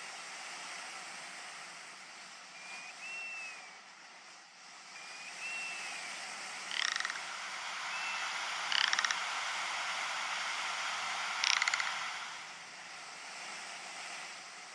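Ptarmigan calling: three loud, rapid rattling croaks spread over the latter half, with a few short whistled notes before them, over a steady background hiss.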